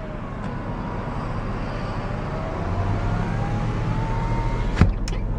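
Idling 3.8-litre V6 of a 1999 Chrysler Town & Country heard from inside the cabin: a steady low hum with a faint whine that slowly rises in pitch. A sharp click comes near the end.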